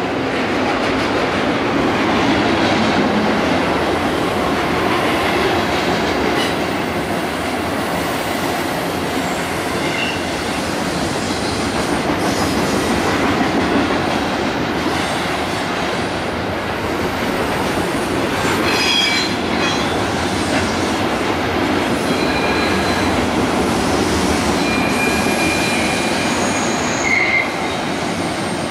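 A freight train rolling past: a steady, loud rumble of wheels on rail and passing cars, with short high-pitched wheel squeals about two-thirds of the way in and again near the end.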